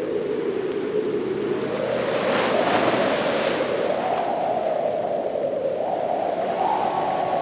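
Ocean waves on a beach: a steady low rush of surf, with one wave washing in more brightly about two to three and a half seconds in.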